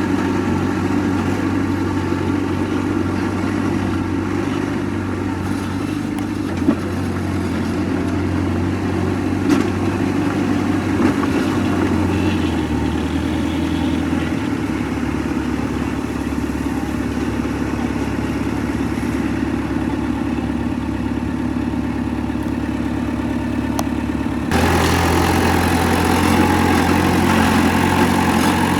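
Heavy diesel engine of earthmoving machinery running steadily, with a few short knocks along the way. Near the end the sound jumps abruptly to a louder, brighter engine note.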